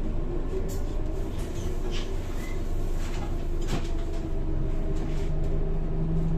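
Scania K230 single-deck bus with a ZF automatic gearbox under way, heard from inside: a steady engine and drivetrain drone holding several tones, with scattered clicks and rattles from the body and fittings. About five seconds in, one low tone grows stronger.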